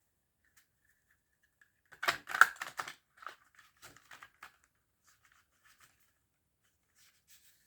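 Tarot cards being shuffled and handled: a quick run of card flicks and snaps about two seconds in, then lighter scattered taps and rustles.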